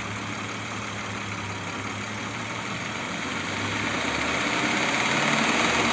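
Audi Q7's 3.6 FSI VR6 engine running, its revs rising gradually from about halfway through. At this moment the warm-up knock, which came from cam phasers that were not locking, has dropped out.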